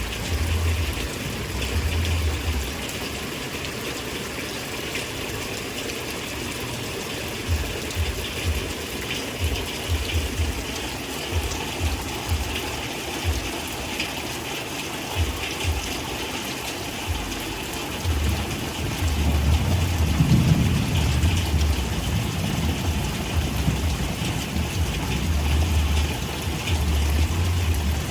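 Steady rain falling, an even hiss throughout, with intermittent low rumbles underneath that are heaviest about two-thirds of the way in and again near the end.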